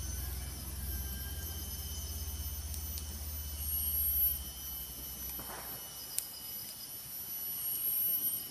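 Forest ambience: insects chirring in steady high-pitched tones, over a low rumble that stops about six seconds in.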